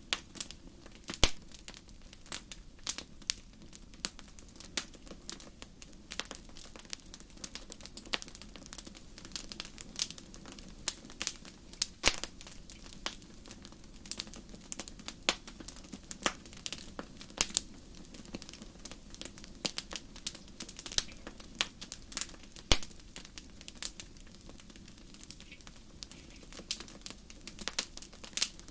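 Wood burning in a fireplace, crackling with many irregular sharp pops, the loudest about a second in, over a low steady hum.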